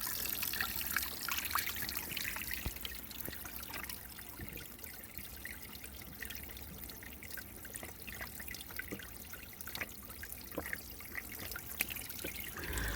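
Spring water trickling from a small spout, with scattered faint ticks, a little louder in the first couple of seconds.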